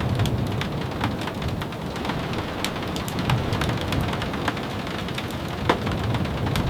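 Steady rain, with individual drops tapping sharply a few times a second over a continuous low rush.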